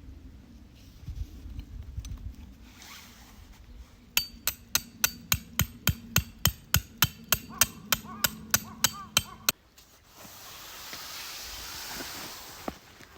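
Rapid hammering: about twenty even strikes, near four a second, each with a short ring, that stop abruptly. A soft, steady hiss follows.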